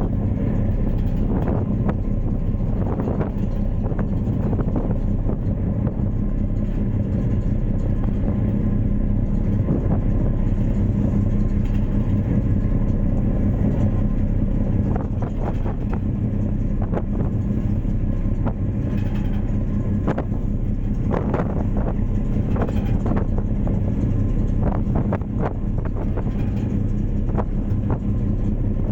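Steady low drone of a ferry's engine running at constant speed.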